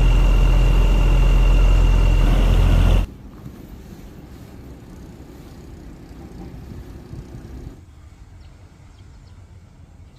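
A large engine running steadily, with a deep hum and a thin high whine above it, cuts off suddenly about three seconds in. Fainter, unsteady outdoor sound follows and drops again near the end.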